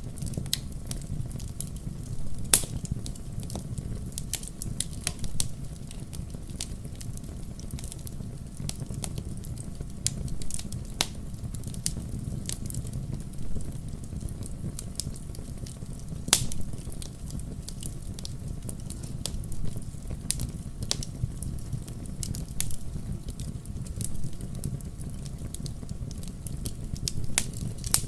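Wood campfire crackling: a steady low rumble of the burning fire with irregular sharp pops and snaps, the loudest about two and a half seconds in and again around sixteen seconds.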